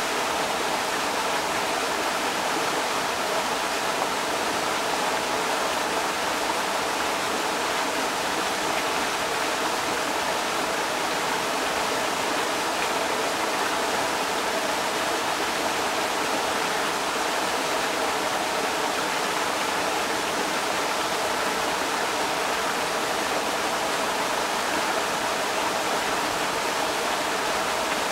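Creek water rushing steadily over rocks, an even, unbroken splashing rush.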